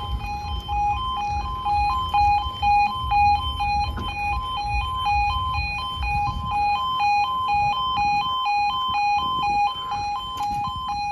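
Level crossing audible warning sounding: an electronic alarm alternating rapidly and steadily between two tones, over a low rumble.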